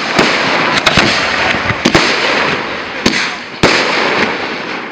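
Fireworks display: about half a dozen sharp bangs of bursting shells, irregularly spaced, over a continuous noisy wash between them.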